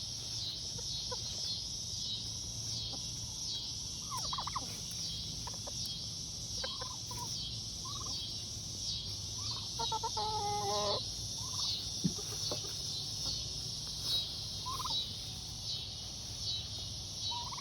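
Domestic turkey tom gobbling once, a rapid rattling call about ten seconds in, with scattered short soft calls from the flock. A steady, pulsing chorus of crickets or similar insects runs underneath.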